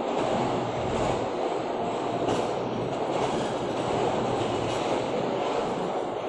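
Subak Kharam rail car rolling along a platform, heard from aboard: a steady rumble of wheels on rail with faint clicks every second or so.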